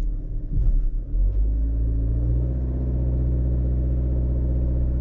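A vehicle engine running at a steady speed. It settles in about a second in and then holds level.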